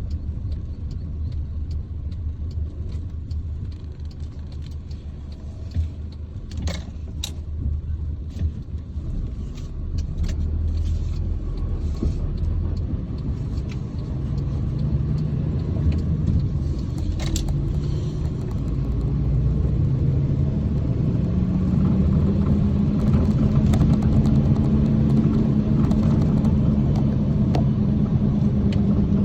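Truck engine and road rumble heard from inside the cab, the engine note rising as the truck accelerates from about halfway through, then holding steady and louder near the end. A few sharp clicks sound in the first half.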